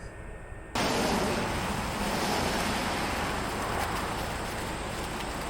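Steady rush of a mountain stream's flowing water, starting abruptly under a second in.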